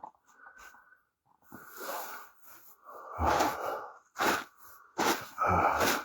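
A person breathing heavily close to the microphone: several loud, rough breaths with short gaps between them.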